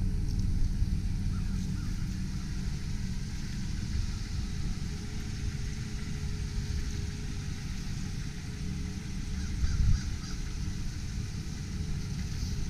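The 2001 Mazda B4000's V6 engine idling steadily with a low rumble. Faint bird chirps come through now and then.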